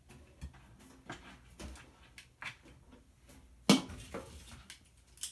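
Scattered small clicks and scrapes of a screwdriver working a stubborn screw in a toaster oven's sheet-metal housing, with one sharp metallic knock about two-thirds of the way through.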